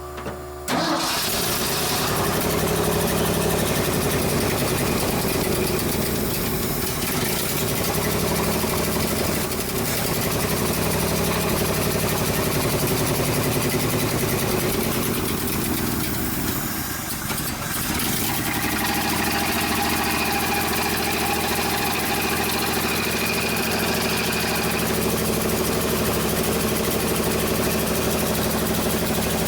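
A 1976 Ford F-600 dump truck's engine catches about a second in and keeps running, faltering briefly around the middle before picking back up.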